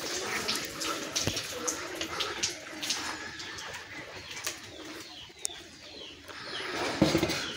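Birds calling around a farmyard: many short high chirps, with a lower wavering call in the first couple of seconds. A sharp knock sounds near the end.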